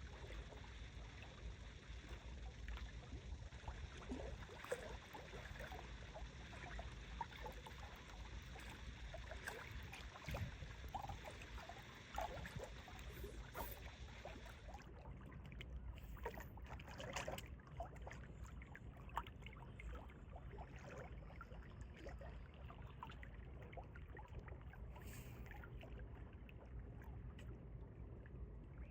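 Small wind-driven waves lapping and splashing against a lakeshore, with wind rumbling on the microphone. About halfway through, the higher hiss drops away abruptly.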